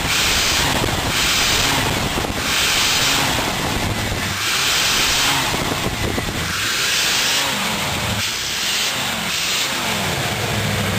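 1977 Lincoln Continental Mark V's V8 engine being revved in repeated throttle blips, just after it came back to life. With each blip a loud hiss swells up along with the rising engine note, then falls back.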